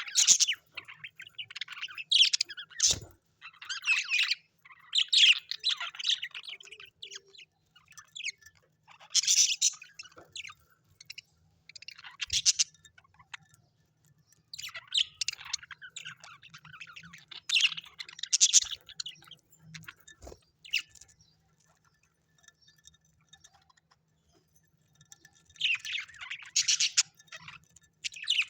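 Birds chirping and tweeting in bursts of rapid high calls that come every second or two, with a few seconds' pause a little past the middle.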